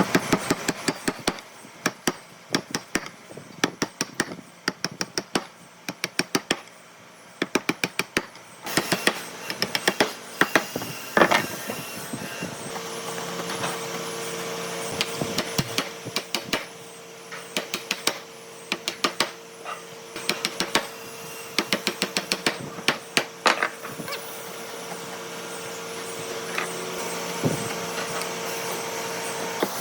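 Rapid runs of sharp taps and knocks, like hand-tool strikes on wood. A steady hum joins about halfway through.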